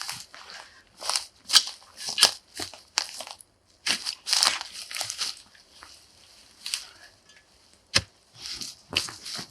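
Digging into forest ground: irregular crunching, tearing scrapes as soil and roots are broken for a fire pit, about a dozen strokes with short pauses between them.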